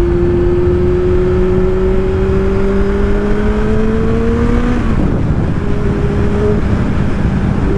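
Kawasaki Z1000 inline-four engine running under way. Its pitch climbs steadily for about five seconds as it pulls through a gear, drops off abruptly, then holds steady. A heavy wind rumble runs underneath.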